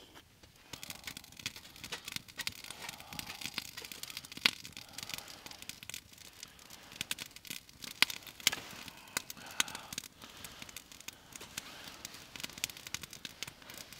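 Wood fire crackling and popping in a small wood-burning firebox stove, with irregular sharp snaps over a light hiss that starts about a second in.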